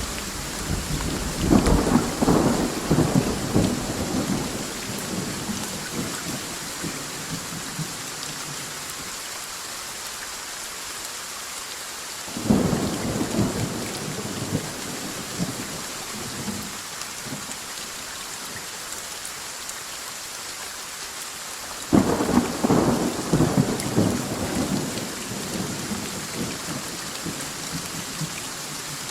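Steady rain with rolling thunder. A rumble runs on through the first few seconds, then a sudden thunderclap about twelve seconds in and another about twenty-two seconds in, each rumbling away over several seconds.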